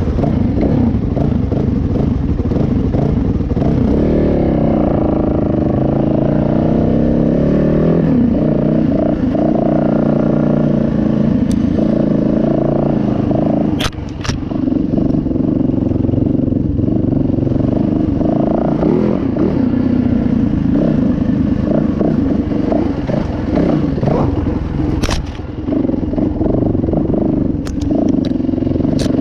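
Dirt bike engine running under way on a trail, its pitch rising and falling with the throttle and gear changes. A few sharp clicks or knocks cut in, one about halfway and more near the end.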